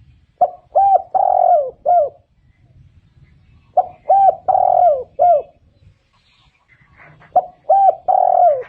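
Spotted dove cooing: the same four-note phrase, two short coos, a longer drawn-out coo and a short closing coo, given three times about every three and a half seconds.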